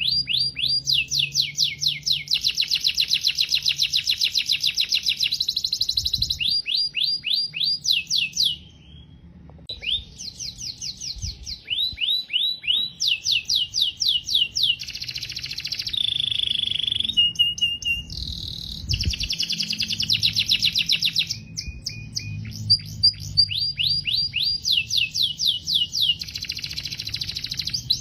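Domestic canary singing: long fast trills of repeated down-slurred notes that switch from one trill type to the next. There is a short break about eight and a half seconds in, and a couple of held whistled notes near the middle.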